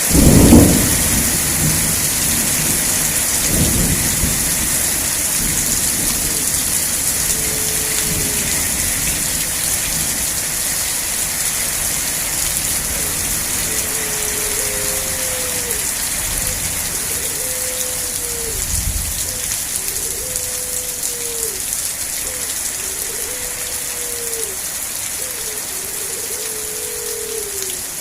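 Steady rain with thunder: a loud thunderclap about half a second in, then fainter rumbles a few seconds later and again past the middle. In the second half a short, low-pitched sound repeats about every second and a half over the rain.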